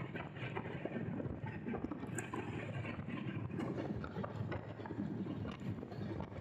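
Train running along the track, heard from on board: a steady rumble with many short clicks and clacks from the wheels on the rails.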